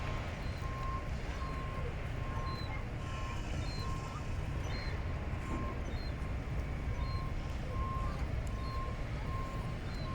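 An electronic warning beeper sounding short, even beeps about twice a second over a steady low rumble.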